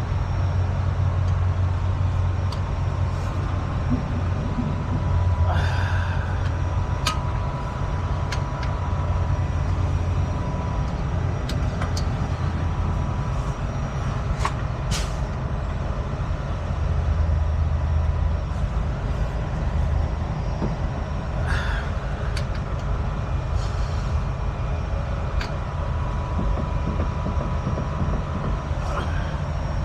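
Heavy truck diesel engine idling steadily, with a few short hisses of air and scattered clicks and knocks.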